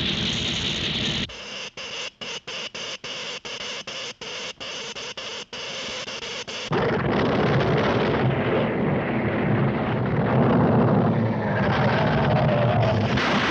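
Volcano eruption sound effects from a 1940s animated cartoon soundtrack: a loud hiss, then a stuttering rumble broken by short gaps about twice a second, then from about seven seconds in a loud, continuous rumble.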